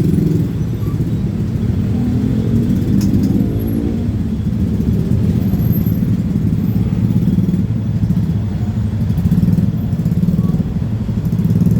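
Heavy engines running with a steady low rumble and a fast, even pulse, their pitch gliding up and down about two to four seconds in.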